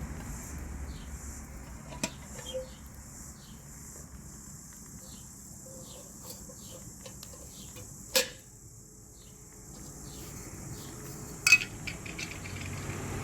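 A few sharp clinks of tableware, the loudest near the end, over a steady high insect drone and short, faint bird chirps.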